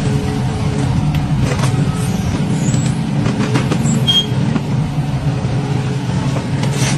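Excavator's diesel engine running steadily under load, with scattered knocks and clicks and a brief high squeak about four seconds in.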